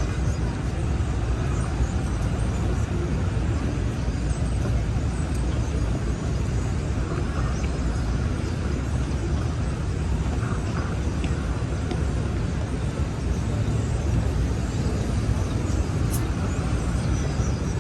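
Busy city street ambience: a steady low rumble of traffic that holds at an even level, with no single vehicle or event standing out.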